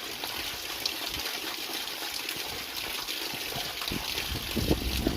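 Steady rush of flowing water from a mountain stream or waterfall, with a few low thumps near the end.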